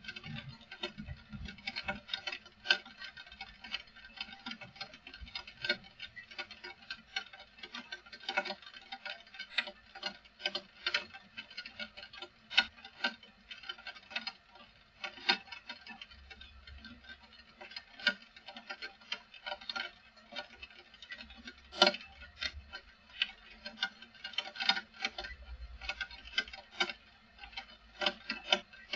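Raindrops striking a hard surface in an irregular patter of sharp ticks, several a second and uneven in strength, with a few low rumbles of wind on the microphone.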